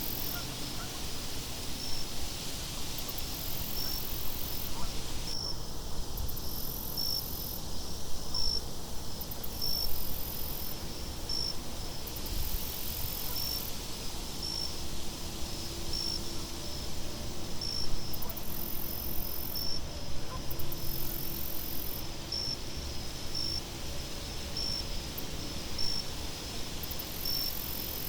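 Crickets chirping in an even rhythm, short high chirps about once a second, over a steady low rumble of wind.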